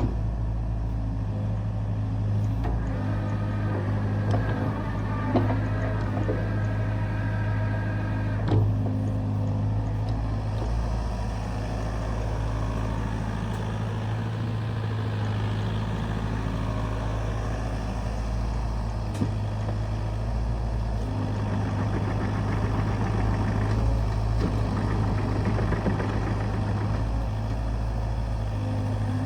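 Kubota U55 mini excavator's diesel engine running steadily under hydraulic load. A whine of the hydraulics comes and goes while the tiltrotator works, and a few sharp knocks of the attachment can be heard, the loudest about five and eight seconds in.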